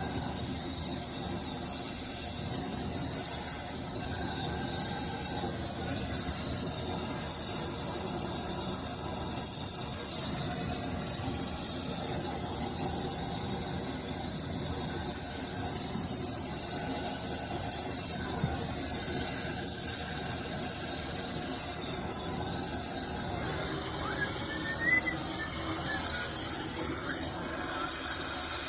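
Brazing torch flame hissing steadily while a copper refrigerant line joint is brazed at the indoor coil; the hiss swells and eases every few seconds.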